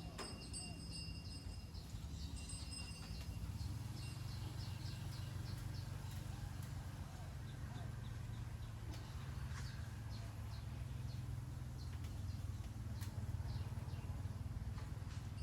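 Short high animal chirps repeating over a steady low rumble.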